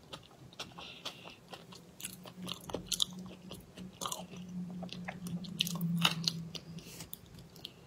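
A person chewing and biting food close to a clip-on microphone: many small wet clicks and crunches. A low steady hum runs under it from about two seconds in until near the end.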